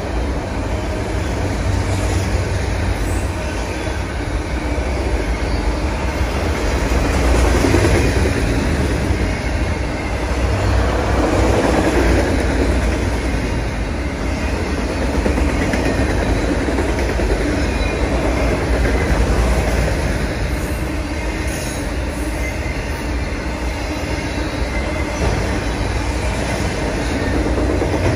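Freight train of autorack cars rolling past. A steady, loud noise, heaviest in the low end, swells and eases every few seconds as the cars go by.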